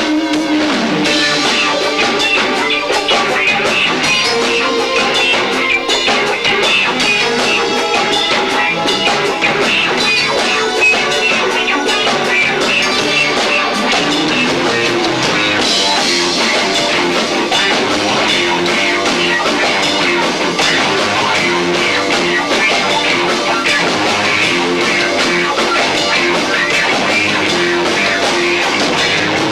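Live rock band playing loud, distorted electric guitar with bass and drum kit, recorded through a camcorder's built-in microphone, which makes it harsh and low-fi.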